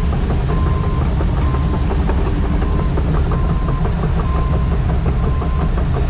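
Semi-truck running down the road, a steady diesel and road rumble heard inside the cab, with a faint beep repeating about once a second.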